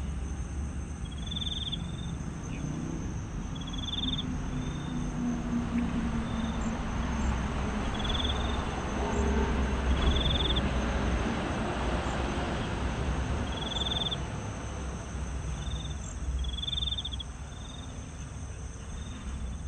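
Crickets chirping in short trills every second or two, over a steady low rumble.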